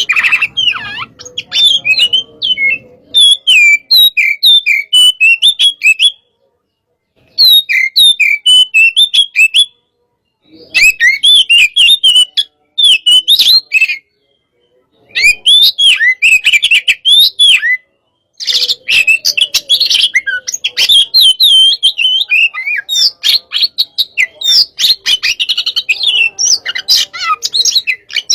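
Oriental magpie-robin (kacer) singing a fast, aggressive 'hot-type' song of rapid chirps and whistles, in phrases a few seconds long broken by short silent pauses.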